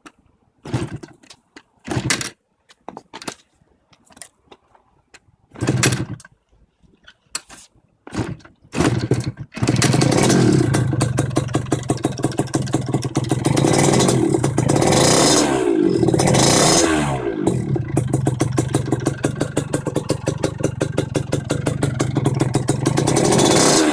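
Yamaha TZR50's 50cc two-stroke single through an SPI expansion-chamber exhaust: several short bursts before it catches about nine seconds in, then running with a fast, even exhaust pulse and two brief throttle blips that fall back. The exhaust is loud even at idle.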